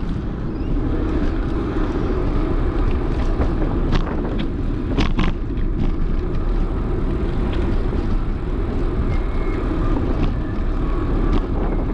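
Steady wind and rolling noise on the microphone of a moving bicycle, heaviest in the low rumble, with a few short clicks about four and five seconds in.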